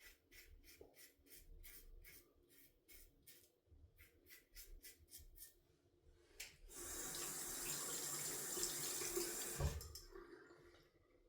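Water running from a sink tap for about three seconds, starting near the middle and shut off abruptly. Before it, faint regular ticks come about three or four a second.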